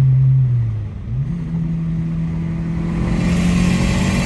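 Turbocharged Honda D17 four-cylinder engine in a Civic running under load, heard from inside the car: the revs dip about a second in, then climb steadily as the car accelerates.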